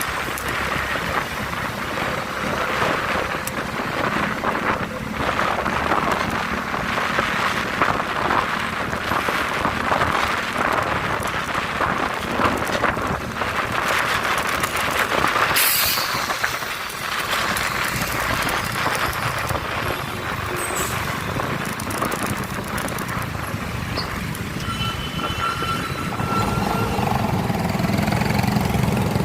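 Motor vehicle on the move: steady engine and road noise with a rushing haze. Near the end come a few short high tones.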